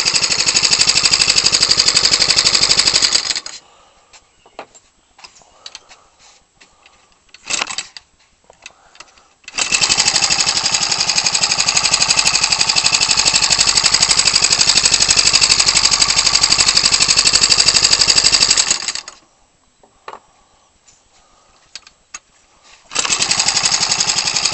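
Ryobi 29cc four-stroke engine, converted for a giant-scale model aircraft, running steadily with its 18x6 wooden propeller, a fast, even buzz. It breaks off abruptly twice, leaving only faint clicks, then comes back at the same level.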